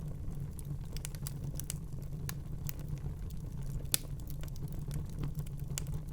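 Wood fire burning in a fireplace: a steady low rumble of flames with frequent irregular crackles and small pops, the sharpest pop about four seconds in.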